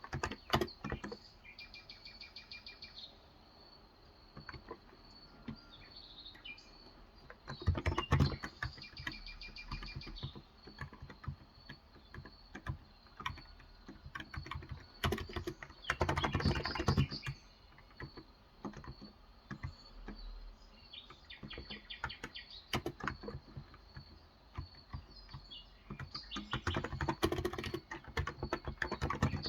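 Typing on a Cox Endeavor electro-capacitive (topre-style, 35 g) tenkeyless keyboard, soft keystrokes in uneven runs with three denser bursts. Birds chirp in short phrases in the background, over a steady high insect-like tone.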